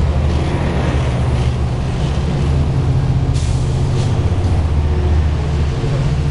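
Diesel train locomotive running with a steady low engine rumble, with a short air hiss about three seconds in.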